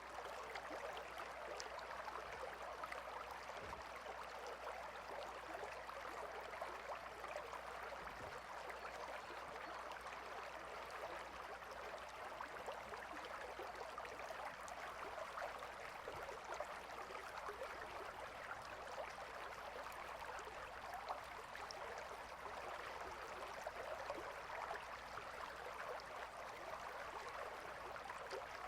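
Gentle river flowing: a steady rush of running water with fine splashing and trickling.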